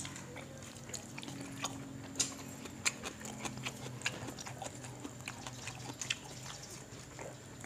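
Close-up chewing and lip-smacking from people eating rice and fish by hand: irregular wet clicks and smacks over a steady low hum.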